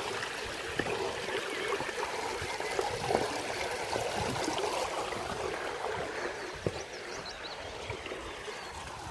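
Small stream steadily trickling and flowing over stones, with a few sharp knocks now and then.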